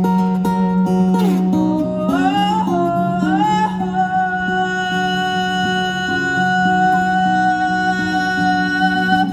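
Solo acoustic guitar played under wordless singing. The voice slides up in pitch and then holds one long note from about four seconds in.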